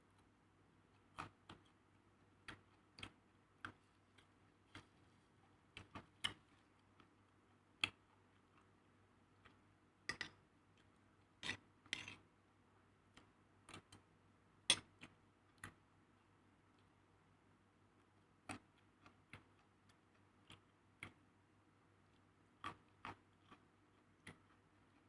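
Sparse, irregular light clicks and taps from kitchen utensils and food being handled, a few sharper knocks bunched together near the middle.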